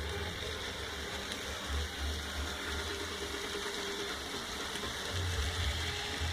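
N-scale model train running on the layout: a steady small-motor whir with wheel and track noise and an uneven low rumble.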